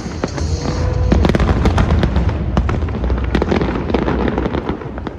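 Fireworks bursting in quick succession: many sharp cracks over a deep rumble of booms, the bursts thinning and fading toward the end.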